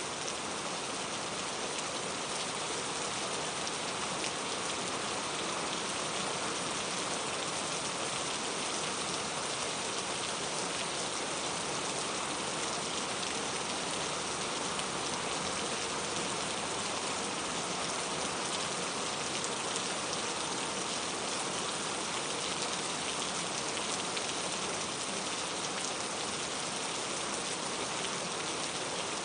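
Steady rain falling, an even patter of many drops on a surface.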